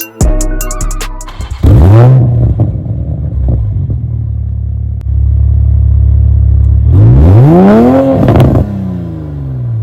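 Toyota A90 Supra's turbocharged 3.0-litre inline-six running through a Remnant Performance Leviathan turbo-back exhaust, revved from idle twice. The first is a quick blip about two seconds in; the second is a longer rev that rises, peaks about eight seconds in, and falls back to a steady idle.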